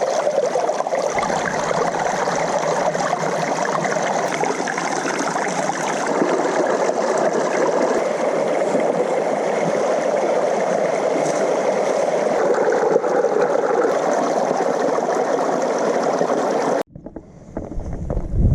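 A stream of running water, rushing steadily. It cuts off suddenly about 17 seconds in, leaving a low rumble.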